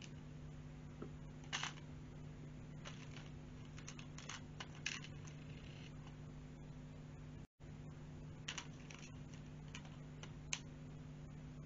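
Small plastic LEGO pieces being handled and pressed together: scattered sharp clicks at irregular intervals, over a steady low hum.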